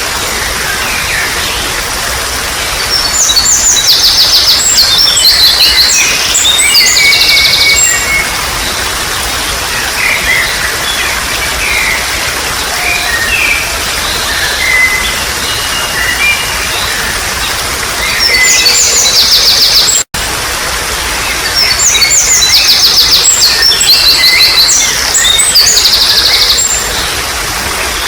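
Wild birds singing over a steady trickle of flowing water. Loud spells of rapid, repeated high trilling come at about three to eight seconds in and again from about eighteen to twenty-seven seconds, with shorter chirps between them. The sound drops out for a split second about twenty seconds in.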